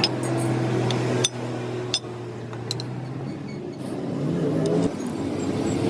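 Motor vehicle engine running steadily, its pitch rising from about four seconds in as the engine speeds up.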